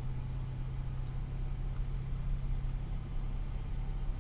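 Car engine running at a steady idle, a constant low hum with no revving.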